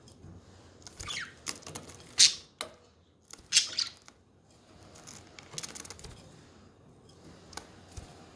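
Pet budgerigars chirping and chattering in short, scratchy calls, the two loudest near the middle, with scattered light clicks and taps.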